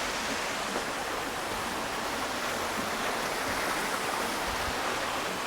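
Steady rush of running water, an even hiss with no breaks or distinct events.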